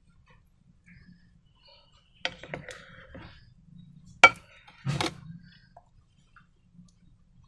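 A few sharp clinks and knocks of hard utensils or containers being handled: a small cluster about two seconds in, the loudest single click just past four seconds, and another knock about a second later.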